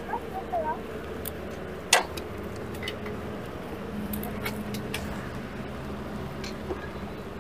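Motorcycle engine idling with a steady low hum, and a single sharp click about two seconds in.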